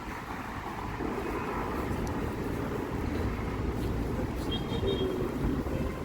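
City street traffic: a steady rumble of passing vehicles that swells about a second in, with wind buffeting the microphone.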